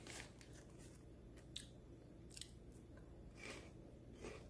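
Faint chewing of a light, airy peanut-flavoured puff snack: a few soft, short crunches over near silence.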